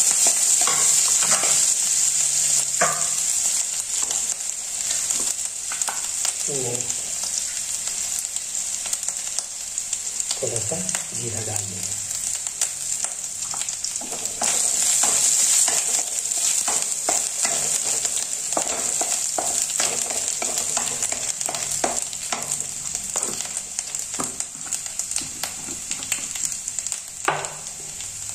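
Chopped green chilli, garlic and ginger sizzling in hot oil in a kadai, stirred with a wooden spatula that scrapes and taps against the pan. The sizzle swells again about halfway through.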